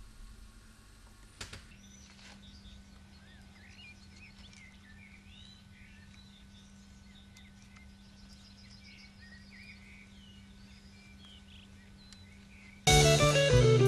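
Birds chirping and calling faintly over a steady low hum. About a second before the end, electric guitar music comes in loudly.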